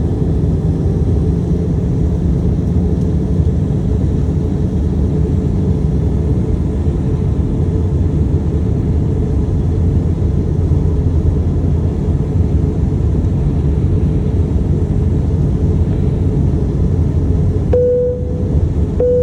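Steady low rumble of jet engines and airflow inside the cabin of an Airbus A320 airliner in flight, descending towards landing. Near the end, two short tones of the same pitch sound about a second apart.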